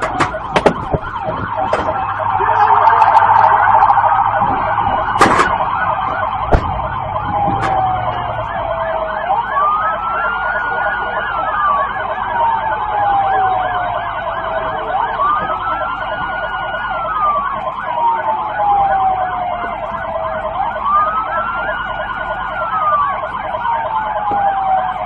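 Police car siren wailing: each cycle rises quickly, holds, then falls slowly, about every six seconds, over a faster warbling tone. A couple of sharp knocks sound several seconds in.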